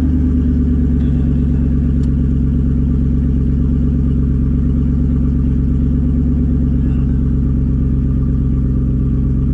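Twin-turbocharged Ford Coyote 5.0 V8 in a Mustang running steadily at low, even revs, a deep constant drone, heard from inside the car.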